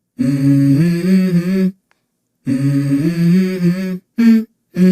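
A voice humming a simple tune in short phrases, stepping between a few low notes, with abrupt silent gaps between the phrases.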